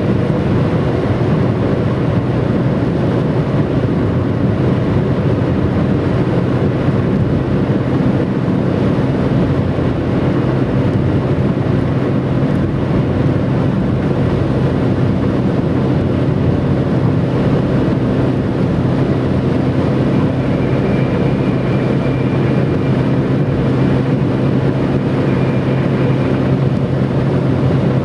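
Stock Bridgestone Turanza tyres on a Mitsubishi Lancer IX whistling on the motorway surface at speed: steady road noise with a whistle like an airplane. A faint higher tone comes in about twenty seconds in.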